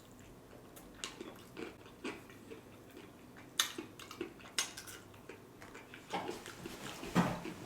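Close-miked chewing and mouth sounds of a person eating, with scattered soft clicks and crunches at irregular intervals.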